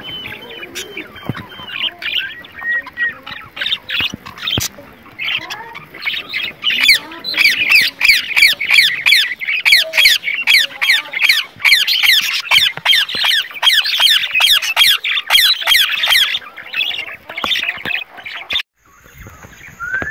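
Caged birds calling: a dense chorus of rapid, sharp chirps and squawks, loudest through the middle, that cuts off suddenly near the end.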